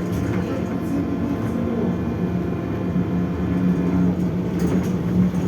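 Belkommunmash BKM 32102 trolleybus on the move, heard from inside the passenger cabin: a steady electric traction-motor hum with road noise and a few light rattles of the body.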